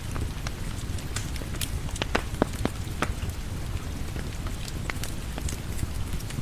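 Steady rain mixed with a crackling wood fire: an even low rumble and hiss, with irregular sharp pops and snaps scattered throughout.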